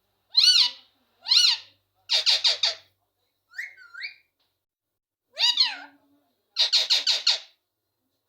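Pet parrot calling: a few drawn-out cries that rise and fall in pitch, some of them meow-like, mixed with two quick runs of short, rapid chattering notes.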